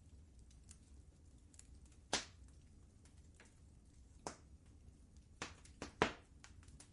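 Wood fire crackling in a fireplace: scattered sharp pops over a low steady rumble, the loudest about two seconds in and again near the end.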